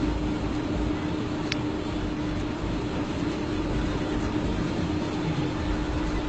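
Steady street traffic noise with a constant hum and a single short click about a second and a half in.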